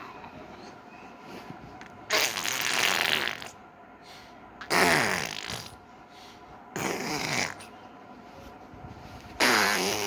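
A baby blowing raspberries, four sputtering lip trills about a second long each, with short pauses between them; the first is the longest.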